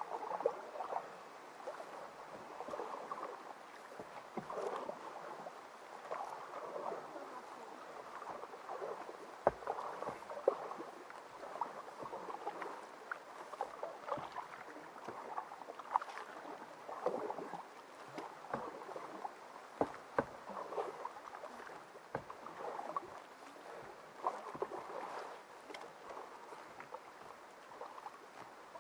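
Canoe paddle strokes in water, a swish and gurgle that rises and falls about every one and a half seconds, with a few sharp knocks now and then.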